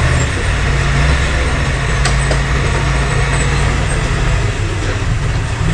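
Heavy diesel engine of earthmoving machinery running steadily at a low drone, with one sharp click about two seconds in.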